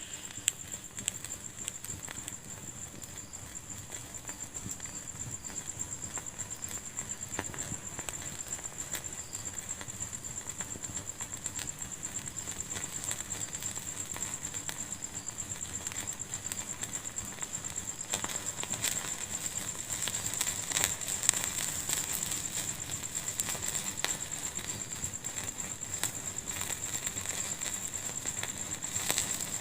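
Wood fire crackling in a fireplace: a steady bed of small crackles with scattered louder pops, one just after the start and another about two-thirds of the way through, over a steady high-pitched hiss.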